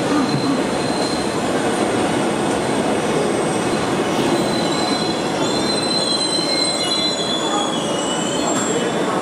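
ITX-Cheongchun electric multiple-unit train pulling slowly out of the platform, with steady running noise; thin, high wheel squeals come and go from about four seconds in.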